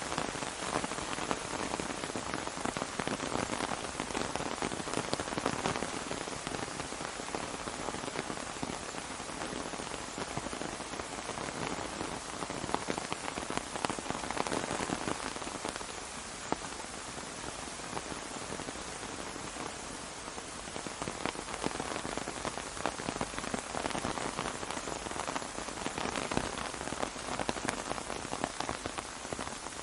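Steady rain falling on an umbrella: a continuous hiss dotted with many separate drop hits.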